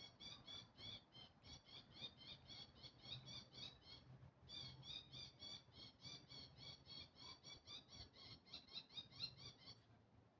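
A bird calling in a long rapid series of short, high notes, about six or seven a second, with a brief break about four seconds in and stopping shortly before the end.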